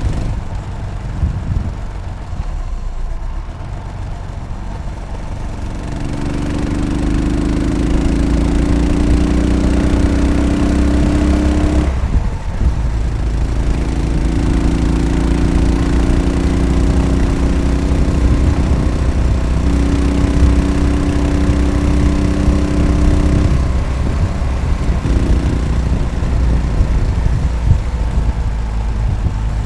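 Yamaha SR500's air-cooled single-cylinder four-stroke engine running under way. It is quieter at first, picks up with rising pitch from about six seconds in, breaks off briefly around twelve seconds as for a gear change, then pulls steadily again.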